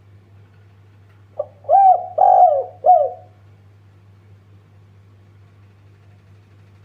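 A spotted dove (tekukur) gives one cooing phrase about a second and a half in: a short lead note, then three coos, the middle one longest. A steady low hum runs underneath.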